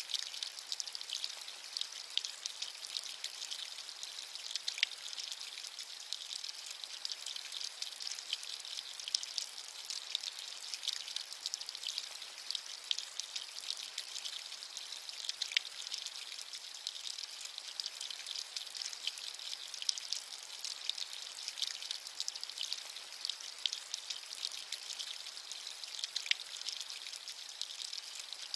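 Steady rain pattering, a bright hiss dense with individual drop ticks, a few louder drops standing out now and then.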